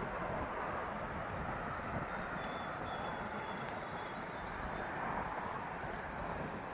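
Steady outdoor rush of distant road traffic, with short high bird chirps repeating over it.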